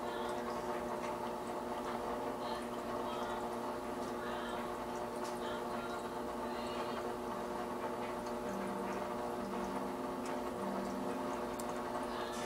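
Aquarium filter running: water trickling and bubbling over a steady hum, with scattered small drips.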